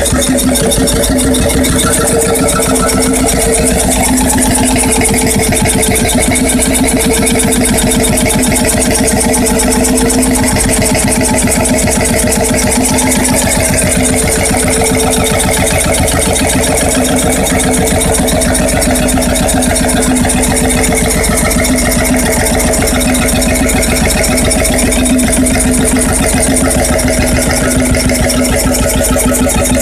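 Freris 12 hp two-stroke diesel engine (Syros-built, 1950–55) running steadily at an even speed, its firing beats rapid and regular.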